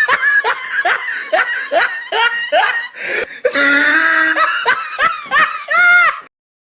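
Laughter sound effect: a high-pitched voice laughing in a run of short, falling "ha" syllables, about three a second, with a longer held laugh in the middle. It cuts off near the end.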